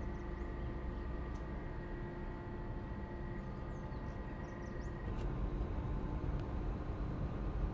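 Steady drone of marine diesel engines with a low rumble and several held tones, growing louder about five seconds in. A few faint short high chirps sound over it.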